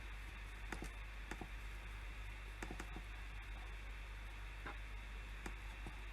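Sparse, irregular clicks at a computer, about ten in all, from keys and mouse buttons during slide work. A steady low hum and hiss lies underneath.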